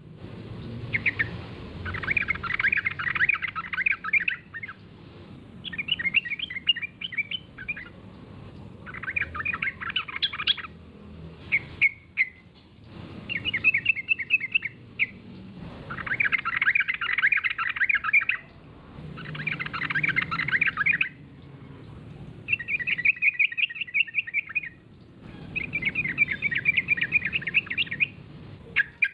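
Yellow-vented bulbul singing over and over: bursts of quick, bubbling chattering notes, each one to three seconds long, with short pauses between them.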